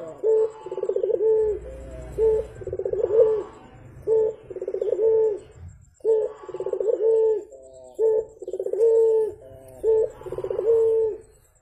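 Barbary dove (burung puter) cooing in repeated phrases, each a rapid rolling trill that ends in a longer held note. The dove sings two bouts with a short break at about six seconds.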